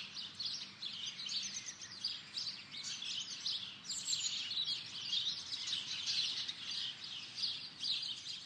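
Songbirds chirping and singing, a dense run of short, quick, overlapping calls.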